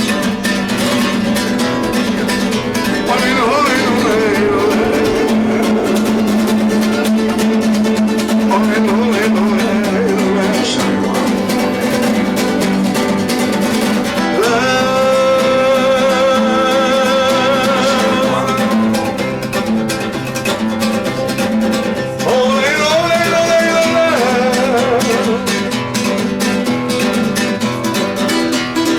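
A man singing a Latin American song to his own acoustic guitar, the singer holding long wavering notes about halfway through.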